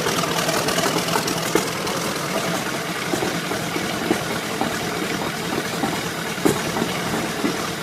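Hall-Scott 512 Defender engine running steadily at idle.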